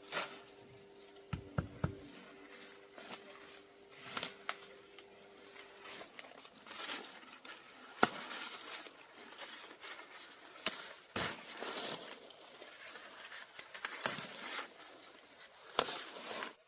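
Irregular sharp knocks and clicks with rustling and crinkling between them, the sounds of something being handled by hand. The loudest knock comes about halfway through. A faint steady hum runs through the first few seconds, then stops.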